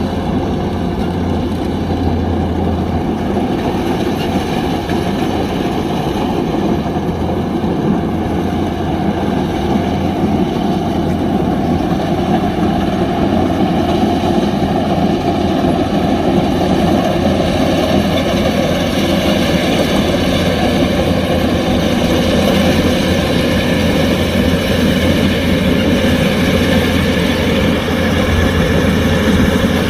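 Kubota DC-105X combine harvester's diesel engine and machinery running with a steady drone.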